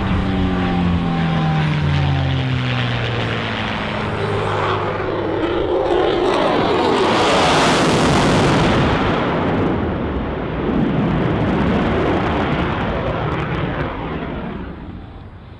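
A P-51 Mustang's Merlin V-12 passes with its engine note falling in pitch. Then the F-22 Raptor's jet roar builds to a loud peak about halfway through and fades away near the end.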